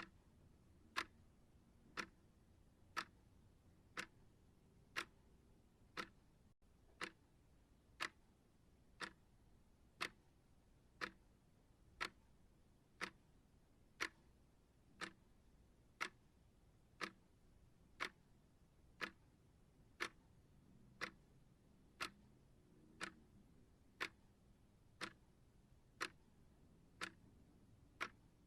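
Clock ticking steadily, one sharp tick a second, over faint hiss.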